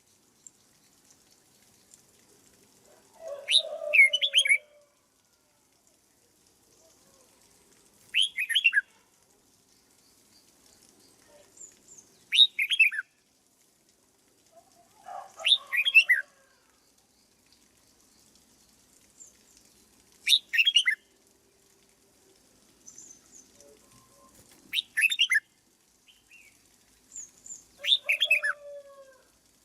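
Red-whiskered bulbul singing short, loud phrases of quick sweeping notes, seven of them, spaced about four seconds apart with quiet between.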